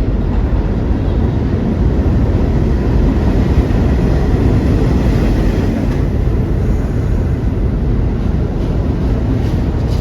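R68 subway train rumbling loudly and steadily along the track in the station.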